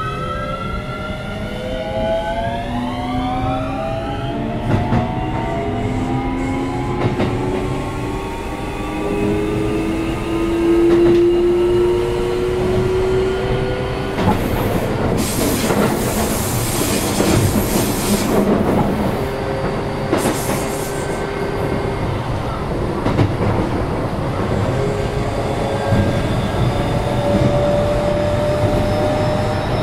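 Keio 7000 series electric train heard from inside a car while running: a whine from the drive equipment climbs in pitch as the train accelerates over the first few seconds, then settles to a slowly rising tone over steady wheel-on-rail rumble. A louder rushing noise swells from about halfway in for several seconds.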